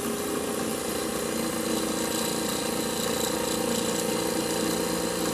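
Milling machine running with its end mill cutting into the wall of a tube as it is fed in: a steady machine hum with a held mid-pitched tone.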